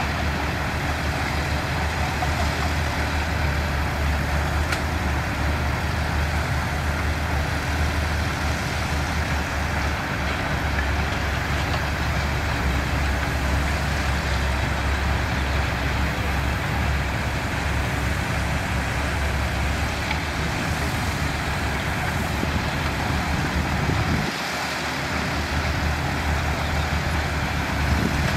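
Diesel construction machinery running steadily, a continuous low engine rumble, which dips briefly about four seconds before the end.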